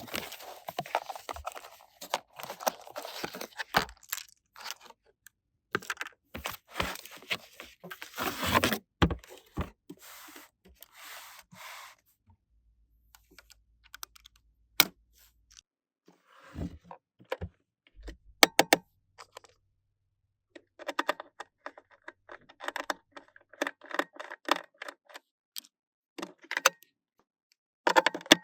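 Small toy pieces being handled: irregular bursts of clicking, tapping and rustling, broken by short pauses, with a few sharp single clicks.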